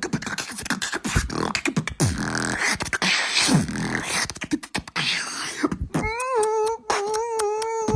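Exaggerated comic moaning and mouth noises: a fast jumble of clicks, grunts and short sliding vocal sounds, then from about six seconds in one long held high moan over a steady run of clicks.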